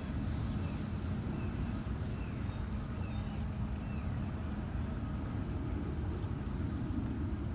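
Outdoor ambience: a steady low rumble, with short high bird chirps scattered through the first few seconds.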